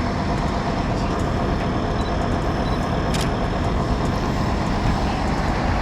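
Steady rumble of vehicle engines running at the roadside, with a brief tick about three seconds in.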